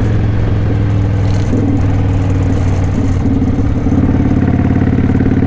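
Kawasaki Vulcan 900's V-twin engine running as the motorcycle is ridden, its pitch stepping up slightly about a second and a half in and again about three seconds in as the throttle opens.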